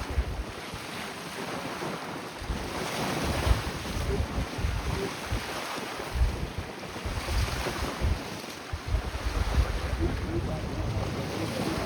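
Strong wind buffeting the microphone in irregular low gusts, over a steady rush of wind and water.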